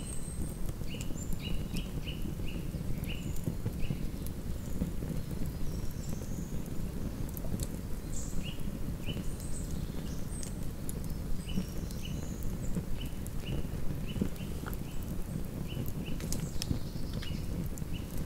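Wood campfire crackling and popping, with many sharp snaps over a steady low rush of the burning fire. Short high chirps repeat in runs throughout, a small bird calling in the surrounding forest.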